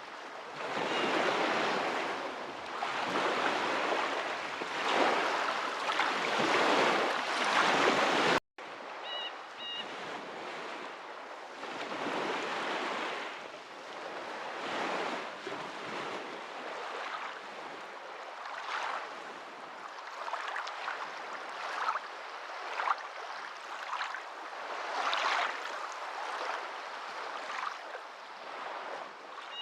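Waves washing in, in repeated surges of noise every second or two. About a third of the way in the sound cuts out for an instant and comes back quieter.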